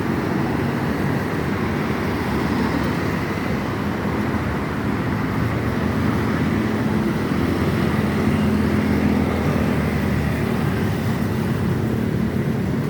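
Steady road traffic noise: vehicle engines and tyres running without a break, with a low engine hum that swells slightly in the middle.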